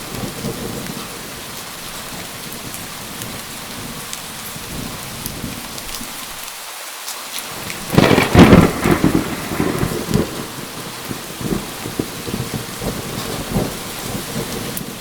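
Steady rain falling, with a sudden loud thunderclap about eight seconds in that rolls on as rumbling for several seconds before fading back into the rain.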